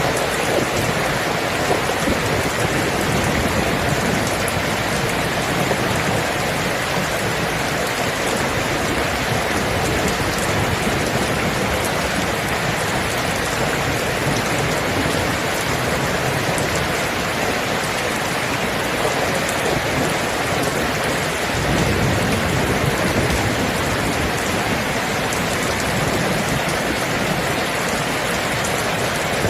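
Steady rain falling hard, an even hiss of drops. About three-quarters of the way through, a low rumble of distant thunder swells briefly under it.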